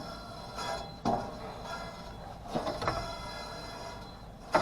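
A few metallic clunks and a rattle from handling the HVAC unit's blower assembly: about a second in, twice near three seconds, and once near the end.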